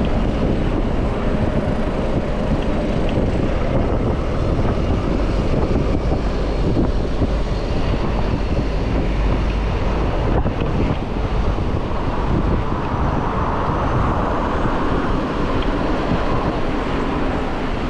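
Wind buffeting the microphone of a chest-mounted action camera on a moving bicycle, over steady city traffic noise.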